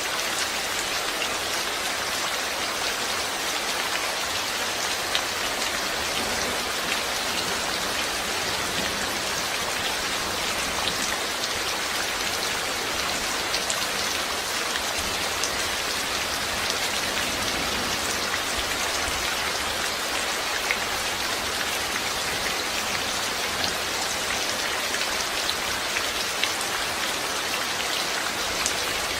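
Steady rain falling, with many small droplet patters over an even hiss.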